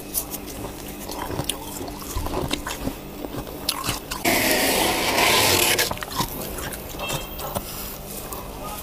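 Close-miked ice or freezer frost being bitten and crunched, with scattered sharp crunches and clicks. A little over halfway in, a loud hissing scrape lasts about a second and a half.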